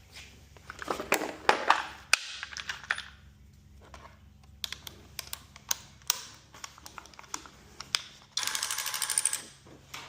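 Scattered sharp clicks and clinks of metal hardware and tools being handled, with a rapid even clatter lasting about a second near the end.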